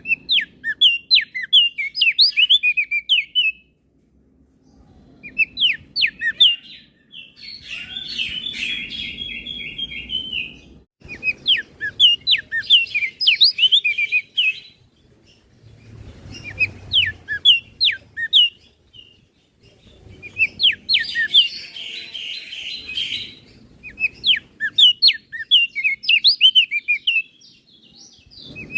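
Crested white-eye (opior jambul) singing: bursts of rapid, high chirping phrases a few seconds long, separated by short pauses, with a buzzy trill in two of the phrases.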